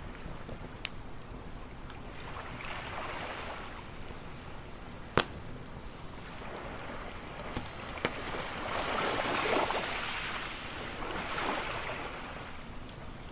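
Waves washing onto a shore in slow swells over a low steady rumble, the biggest swell about nine to ten seconds in, with a few sharp pops of a crackling campfire, the loudest about five seconds in.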